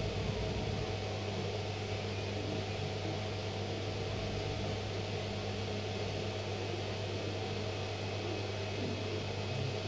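A small CNC mill running with a steady, unbroken motor hum and hiss.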